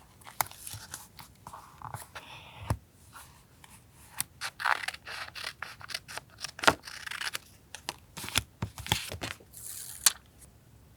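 Scissors snipping through paper, with the paper rustling and sharp clicks as it is handled; the activity stops about ten seconds in.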